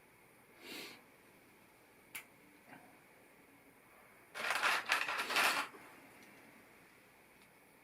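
Plastic LEGO pieces being handled: a few light clicks, then about a second and a half of pieces rattling and clattering together a little past halfway.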